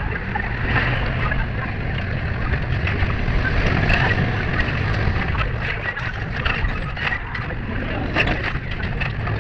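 Steady low rumble and rattling of an electric tram running along its rails, heard from inside the car, with voices in the background.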